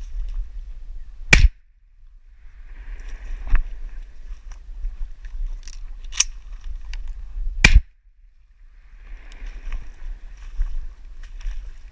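Shotgun blasts: two loud shots about six seconds apart, with a couple of fainter pops between them, over a low wind rumble on the microphone.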